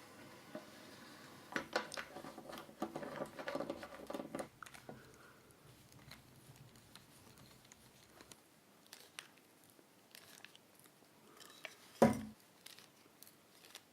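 Hand-handling noises of small parts being assembled: scattered clicks, taps and rustles, busiest in the first few seconds, with one louder knock near the end.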